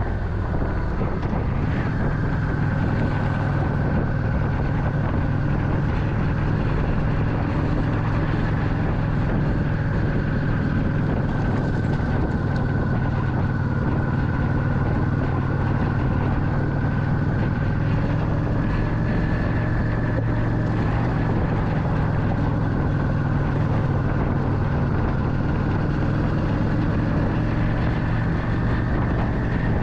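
Motorcycle engine running steadily at cruising speed, its pitch holding nearly even, with wind rushing past.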